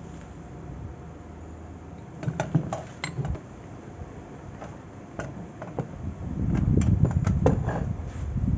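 Low steady hum with scattered metallic clicks and knocks, as metal parts are handled; a louder rumbling clatter builds about six and a half seconds in.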